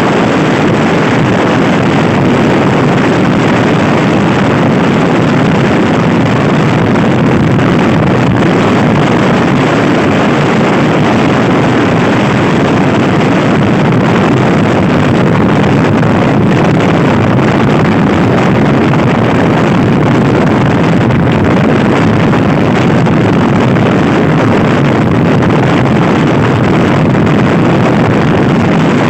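Loud, steady rush of wind buffeting the microphone of a rider on a Honda Scoopy i scooter at speed, with no breaks.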